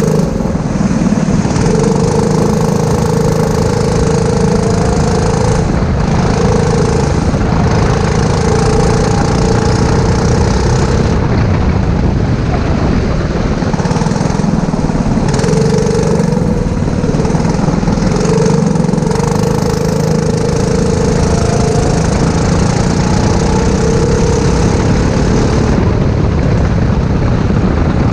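Four-stroke racing kart engine running hard, its revs repeatedly climbing, easing off and picking up again every few seconds, heard close up with a constant rushing noise underneath.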